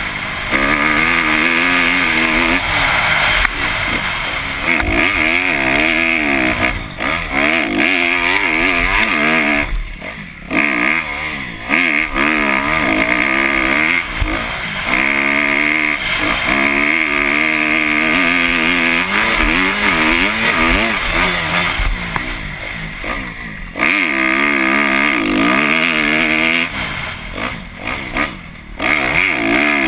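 Kawasaki KX250F four-stroke single-cylinder motocross bike ridden hard on a track, the engine revving up and down again and again as the rider works the throttle through the gears. The throttle is chopped briefly about a third of the way in and twice near the end.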